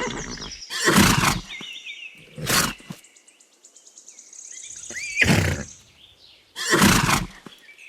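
Horse snorting or blowing in four short, sharp bursts spaced a second and a half to two and a half seconds apart, with a high, quavering whinny between the first and third.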